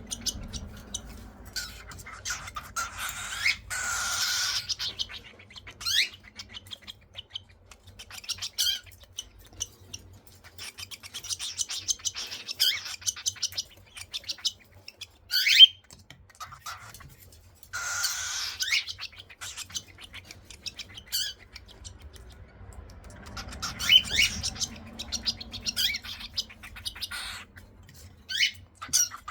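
Baby cockatiels making raspy begging calls while being spoon-fed formula. The calls come in rapid pulsing bursts of a second or two, repeated several times, with a few short, sharp rising chirps; the loudest chirp is about halfway through.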